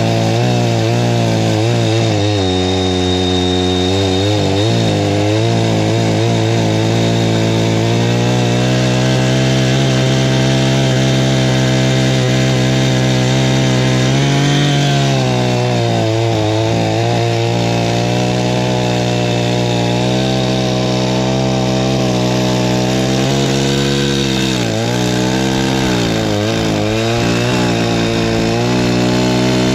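84cc two-stroke chainsaw running at high revs while cutting firewood. Its engine note sags and recovers several times as the chain loads up in the wood.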